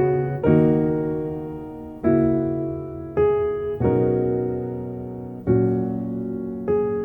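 Background music: slow, gentle piano chords, each struck and left to ring and fade before the next, about one every second or so.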